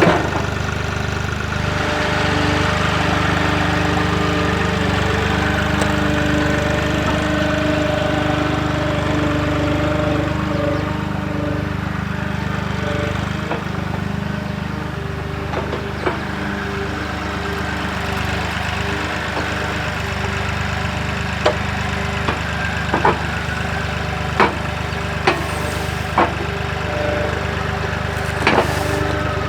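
Avant 755i compact loader's diesel engine running steadily, with a series of sharp knocks in the second half, about ten in all.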